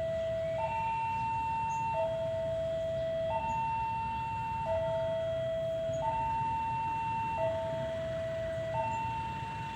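Railway level-crossing warning alarm sounding a two-tone electronic signal, switching between a higher and a lower tone about every one and a half seconds, warning that a train is approaching. A steady low rumble runs underneath.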